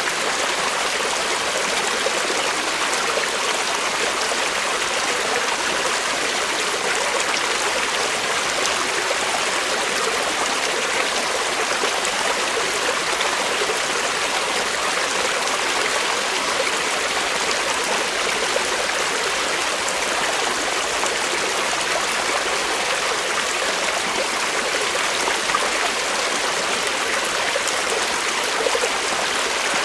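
Creek water flowing over stones, a steady rushing and babbling.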